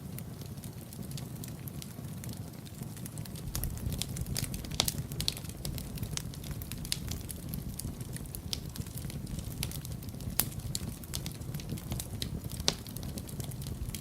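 Wood fire burning in a fireplace: a steady low rumble of flame under irregular sharp crackles and pops, a few louder snaps standing out.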